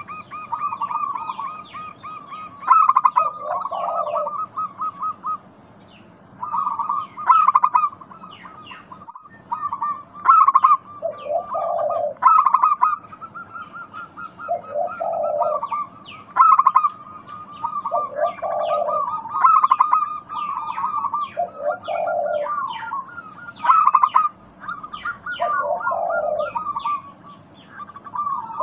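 Zebra doves (perkutut) cooing: rapid, trilled cooing phrases, each closing with a lower note, repeating every few seconds.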